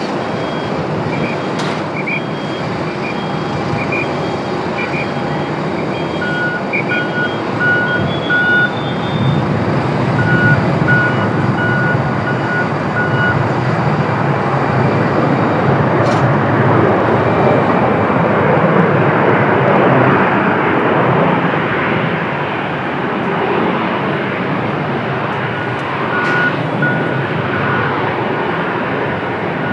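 Jet airliner engines running at an airport, a loud steady rush that swells to its loudest about two-thirds of the way through and then eases. Short, evenly spaced high electronic beeps come and go over it through the first half and again near the end.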